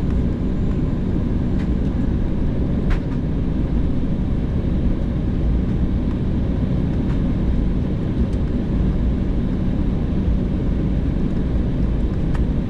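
Embraer 190's General Electric CF34 turbofan engines running steadily before takeoff, heard from inside the passenger cabin as an even rumble, with a few faint clicks.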